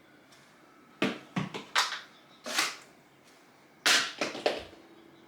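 A series of about eight sharp knocks and clacks at uneven intervals, starting about a second in, with the loudest near the end.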